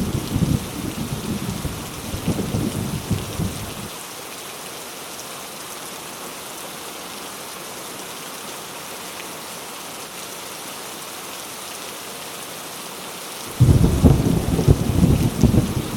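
Heavy rain pouring steadily with rolling thunder rumbling. The thunder dies away about four seconds in, leaving only the rain, and a new rumble of thunder breaks in suddenly near the end.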